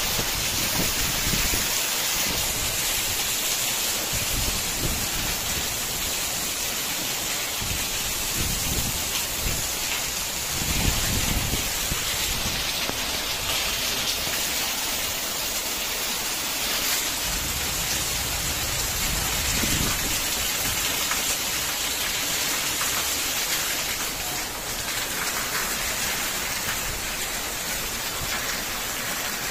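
Heavy rain falling steadily: a dense, even hiss of rain on roofs and walls, with water pouring from a roof drain spout.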